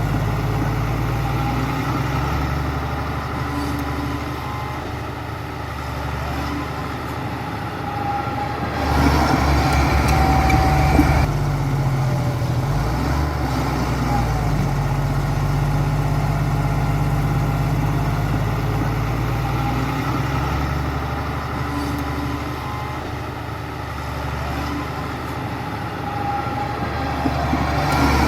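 Heavy construction machine's diesel engine running steadily, getting louder with a rapid pulsing for a couple of seconds about a third of the way in and again near the end, as it works under load.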